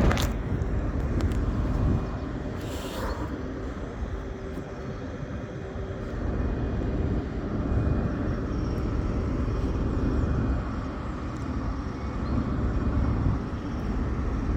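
Railway station background: a steady low rumble of trains at the platforms, with a faint steady hum.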